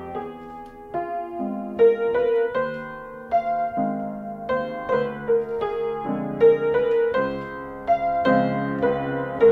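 Piano music: single notes struck one after another, roughly two a second, over held low chords that change every second or two.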